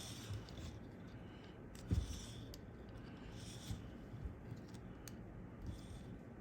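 Small clicks and one sharper knock about two seconds in as a capacitor's wire lead is bent straight on a circuit board, over a steady air-conditioner hum.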